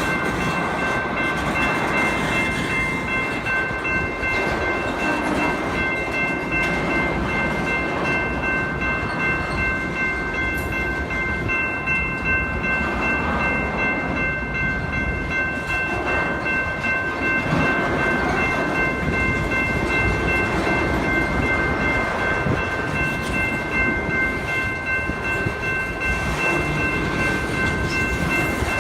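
Freight train of AutoFrame railcars rolling past: a steady rumble of wheels on the rails, with a continuous high ringing tone held over it.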